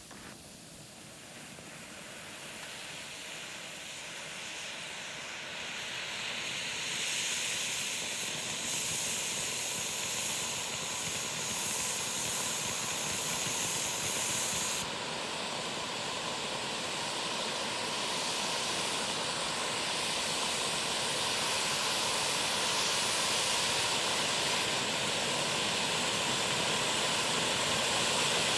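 Two firework fountains (Bugano Gold Rain and Smaragd gerbs) spraying sparks with a steady hiss. The hiss builds over the first seven seconds or so, is brightest and highest from about 9 to 15 seconds in, then carries on, slowly getting louder.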